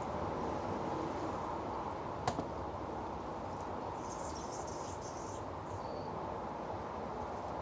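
Water from a bird bath fountain running steadily and splashing onto rocks placed to make it louder, with faint high bird chirps about four to six seconds in. A single sharp click a little over two seconds in.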